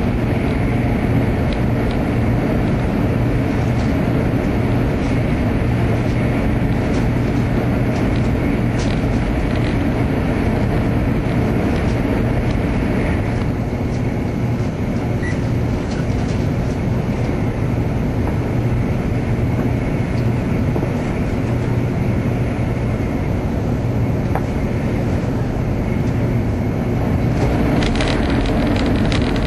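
Shinkansen train running at speed, heard from inside the passenger car: a steady low rumble of wheels and running noise, with light clicking near the end.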